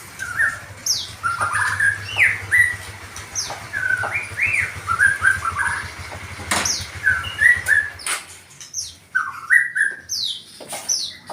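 Songbird chirping and whistling in short repeated notes, some sweeping sharply downward, mixed with sharp clicks. A low hum underneath stops about eight seconds in.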